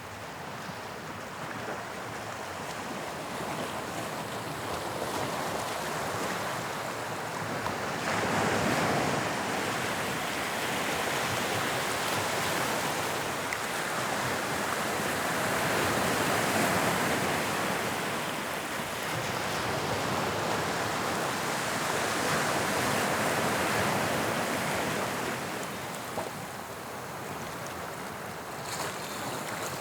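Sea surf breaking and washing onto the shore: a continuous rush that swells louder every several seconds and then eases.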